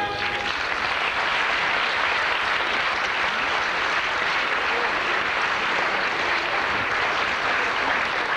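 Concert audience applauding steadily, the last note of the preceding song dying away in the first half-second.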